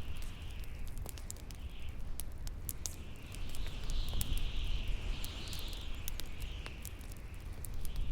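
Bonfire crackling with many sharp pops, over a howling wind whose whistling tone wavers and swells twice in the middle, and a steady low rumble.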